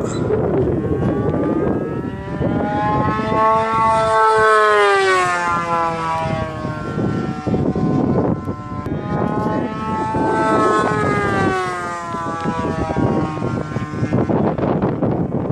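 Glow engine of an RC model plane (O.S. 120 AX) in flight, its pitch rising and then falling twice as the plane passes and manoeuvres.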